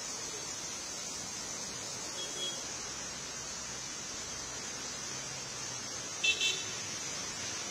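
Steady hiss of heavy rain, with a short vehicle horn beep about six seconds in and a fainter beep near two seconds.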